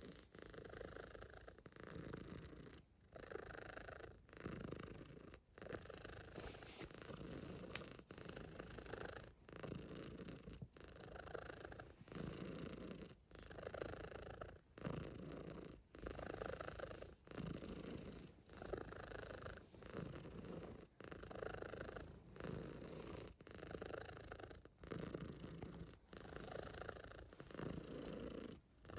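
Calico cat purring steadily, with a short break about every one and a half to two seconds.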